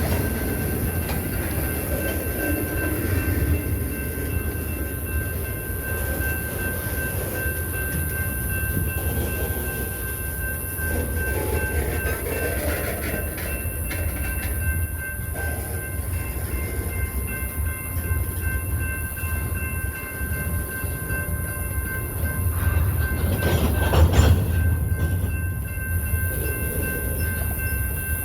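BNSF freight train moving slowly along the track, a steady low rumble of the railcars rolling by. It swells louder briefly near the end.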